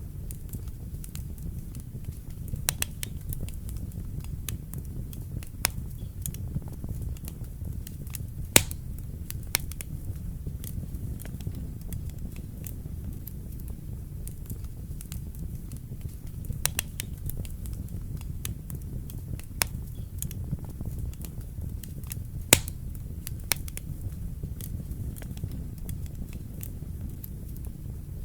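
Wood fire crackling in a fireplace: a steady low rumble of burning with scattered sharp pops, two of them much louder than the rest.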